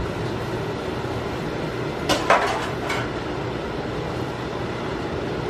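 A utensil clinking against a cooking pot a few times, in a quick cluster about two seconds in, over a steady background hiss.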